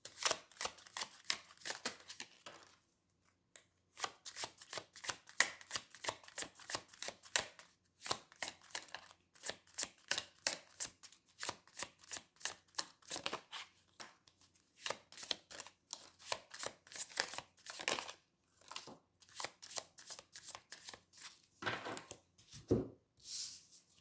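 A tarot deck being shuffled by hand: a quick run of card slaps and taps, several a second, with a couple of short pauses.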